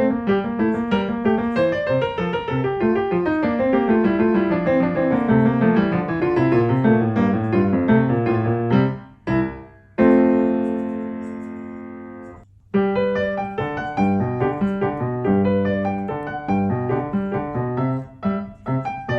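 Background piano music: quick runs of notes, a brief break about nine seconds in, then one long held chord dying away for a couple of seconds before the quick notes start again.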